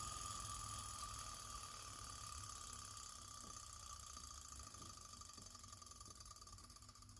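Miniature Stirling hot-air engine (OKMO Microcosm JO6B) whirring with a fast, light mechanical running sound that gradually fades: the engine running down after its spirit burner has been blown out.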